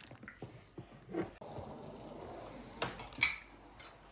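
Faint, scattered light clinks and knocks of dishes and cutlery being handled, over a low, steady hiss that starts about a third of the way in.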